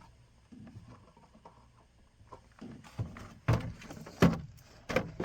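Hands working on a truck's interior door panel parts. It is quiet at first, then comes a series of sharp plastic clicks and knocks in the second half, the loudest about four seconds in.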